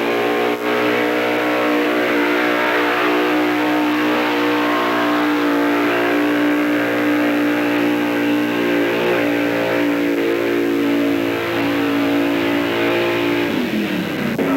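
Vintage Chevy pickup's engine at full throttle, pulling the sled in a truck pull. It holds a steady high pitch for about thirteen seconds, then the revs drop off near the end.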